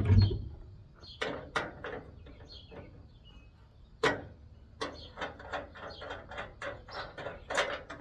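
A heavy low thump, then a run of sharp metal clanks and clicks from an air conditioner being taken apart for scrap, with a sharp knock about halfway through.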